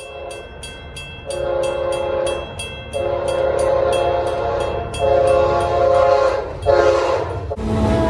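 Train horn sounding a series of long chorded blasts, with a railroad grade-crossing bell ringing at a steady quick pace underneath.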